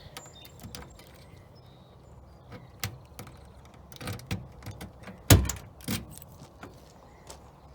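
A car's trunk being unlocked and opened with keys: scattered light clicks and knocks, and one loud thump about five seconds in.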